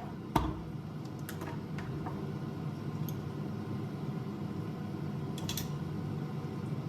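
A few light clicks and taps, the clearest just after the start and a double click near the end, over a steady low hum.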